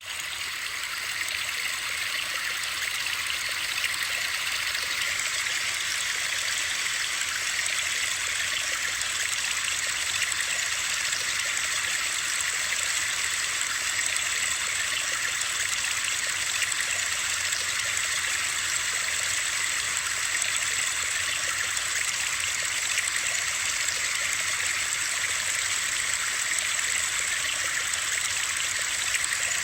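Steady, even hiss of running water, bright and without rhythm or distinct drops. It starts suddenly out of silence and settles within about a second.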